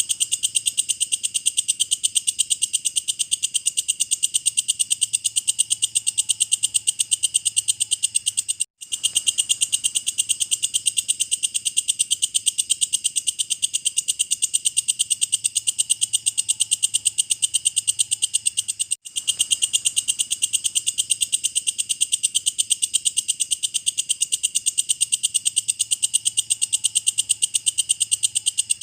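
Walang kecek (belalang kecek), a singing grasshopper-type insect, calling in a continuous rapid, high-pitched pulsing trill. It cuts out for an instant twice, about ten seconds apart, where the recording is looped.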